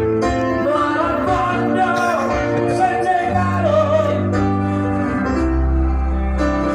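Music with a singing voice and plucked strings over long held bass notes, played through a sound system under test; the bass drops lower and fuller near the end.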